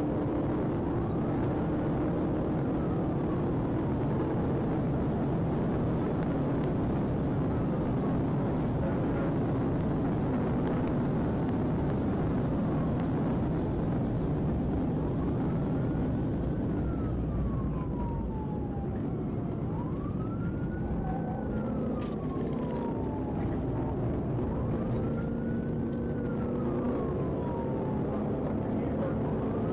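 Police siren wailing, its pitch rising and falling slowly about every five seconds, over a steady heavy rumble of vehicle engine and road noise.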